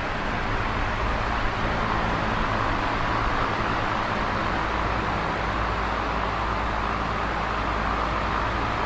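Electric fan running steadily: an even whooshing air noise over a low motor hum.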